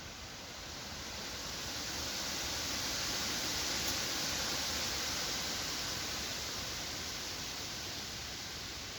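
Wind blowing through forest trees, a hiss of moving leaves that swells to a gust about four seconds in and then dies back.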